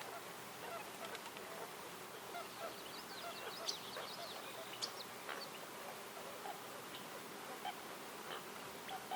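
Several birds calling: a scatter of short, low calls mixed with quick high chirps, busiest a few seconds in, over a faint steady outdoor hiss.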